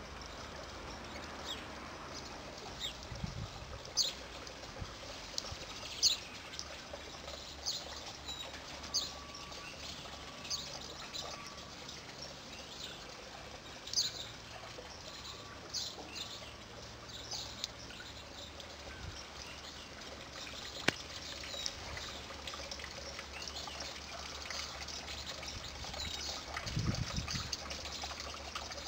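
Small songbirds chirping: short high calls, often sweeping down in pitch, come every second or two over a steady background hiss. A brief low rumble sounds near the end.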